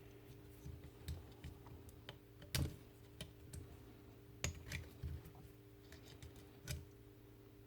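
Light clicks and taps of a jigsaw's parts being handled while it is taken apart, scattered and irregular, the loudest about two and a half seconds in and again near four and a half seconds, over a faint steady hum.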